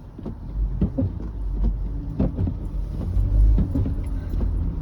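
A car driving slowly through deep snow: a low rumble of engine and tyres that swells a little after the start, with scattered short knocks.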